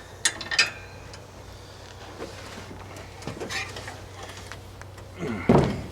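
Handling noise on a riding mower: a couple of sharp clicks, then a loud thump about five and a half seconds in, over a faint steady hum.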